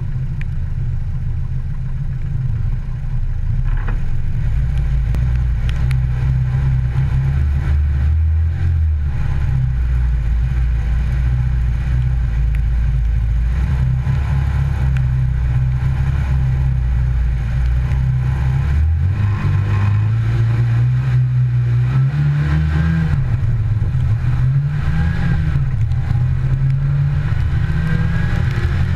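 Rally car engine idling at a stage start, then, about two-thirds of the way in, pulling away and accelerating, its revs climbing in steps with two or three gear changes.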